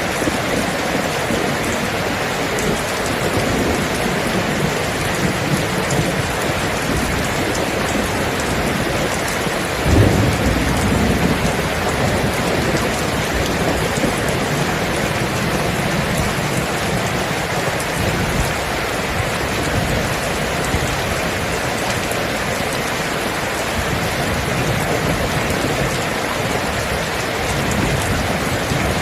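Steady heavy rain falling, with a thunderclap about ten seconds in that rolls on as a low rumble, and more thunder rumbling near the end.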